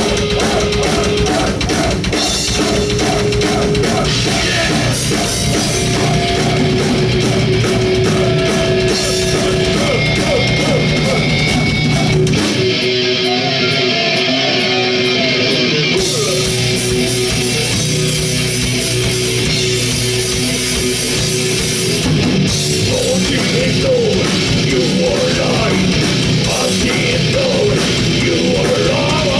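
Heavy metal band playing loud with distorted guitars and a drum kit. About twelve seconds in, the drums and bass drop out for a few seconds while the guitar carries on, then the full band comes back in.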